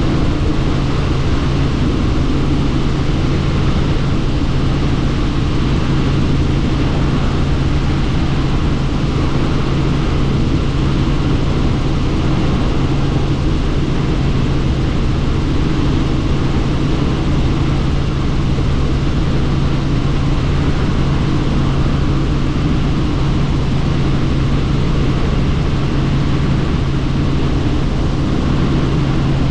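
Helicopter in steady flight heard from inside the doors-off cabin: an unbroken drone of rotor and engine with a constant rush of wind.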